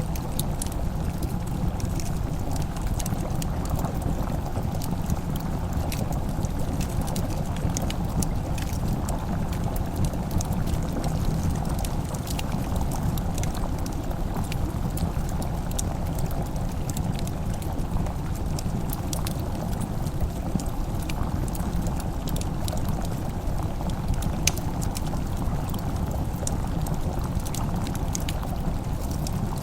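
Wood fire crackling in a fireplace: scattered sharp pops and crackles over a steady low rumble.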